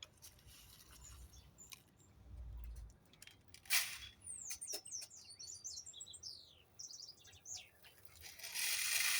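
Many small birds chirping and calling in rapid high chirps and quick falling notes, with a loud sharp sound nearly four seconds in and a brief rushing hiss near the end.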